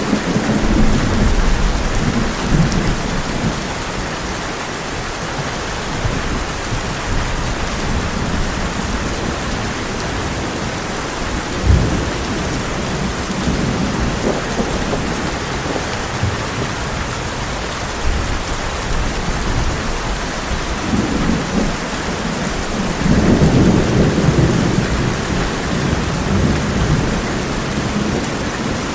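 Heavy rain falling steadily on a tin roof, with rolling thunder rumbling low in the first few seconds, a short sharp crack around twelve seconds in, and a longer, louder roll of thunder about four-fifths of the way through.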